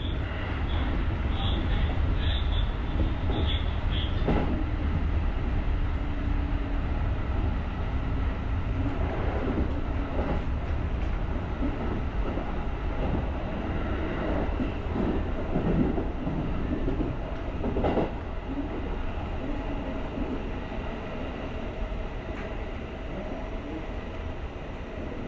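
JR rapid electric commuter train running along the track, heard from the driver's cab: a steady running rumble with short high squeals early on and occasional sharp knocks, one about 4 seconds in and another near 18 seconds. The running sound eases somewhat after that second knock.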